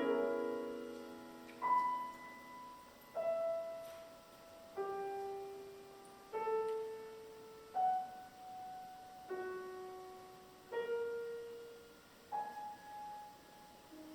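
Solo piano playing slow, sparse music: a loud opening chord, then single notes and small chords struck about every one and a half seconds, each left to ring and die away.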